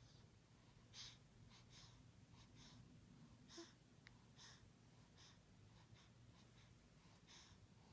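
Faint, short, irregular breaths and small mouth noises of a sleeping person, over a low steady hum.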